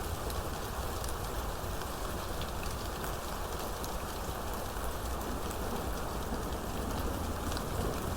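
Steady heavy rain falling, with many sharp drop ticks scattered through it and a low rumble underneath.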